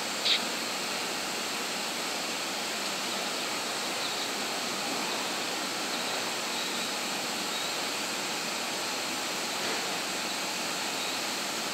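Steady, even rushing noise from a Seibu 40000-series electric train standing still at the platform, its air-conditioning and equipment fans running, with a brief sharp high sound just after the start.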